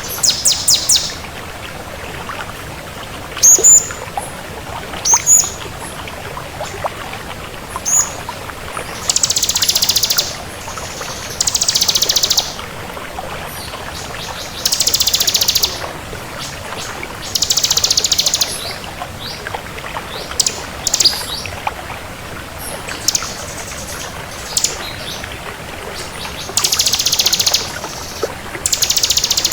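Ciblek kristal (bar-winged prinia) singing hard: bursts of very rapid, buzzy high trills about a second long, repeated every few seconds, with short sharp rising and falling chirps between them.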